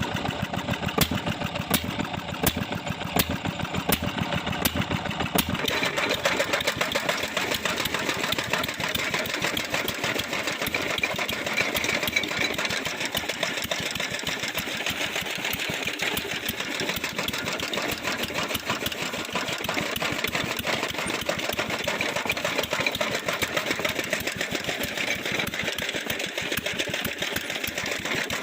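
Old stationary engine running with a rapid, even beat, driving a toka fodder chopper through a belt and pulleys. The sound fills out about five seconds in.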